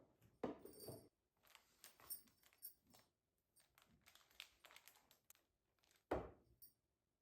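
Faint rustling and light clicks of household objects being handled, with a louder knock about six seconds in.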